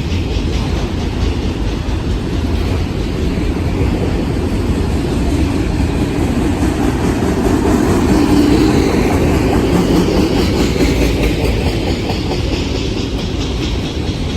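Freight train rolling past, a steady rumble of steel wheels on the rails that swells a little about eight seconds in.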